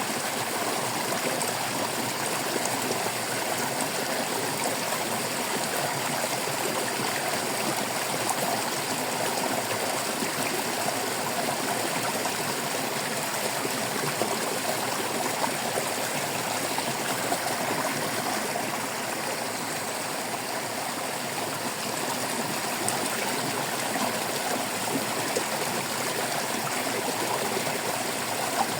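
Water of a small stream running and trickling over stones: a steady babbling rush of water.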